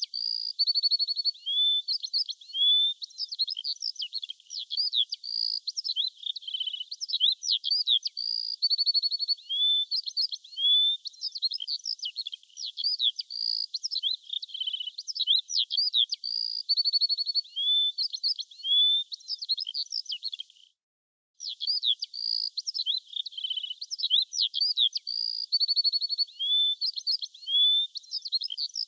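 Birdsong: many quick high chirps and short trills that overlap without pause, dropping out for a moment about twenty-one seconds in.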